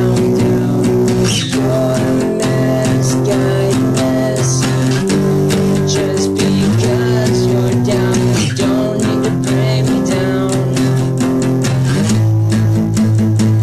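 A band plays an original song, an instrumental stretch led by guitar over bass, with chords changing about every second and a half.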